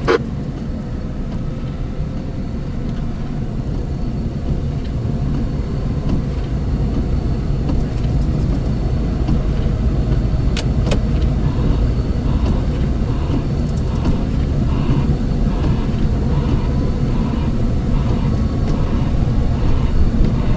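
Heavy snow-removal equipment engine running steadily under load, a dense low drone that grows a little louder. Faint evenly spaced beeps come in over it in the second half.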